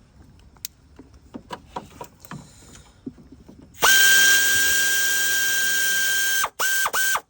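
Cordless power drill or driver spinning a bolt out: a few faint clicks, then about four seconds in the tool runs at a steady high pitch for nearly three seconds, stops, and gives two short bursts. It is backing out an engine hoist bracket bolt.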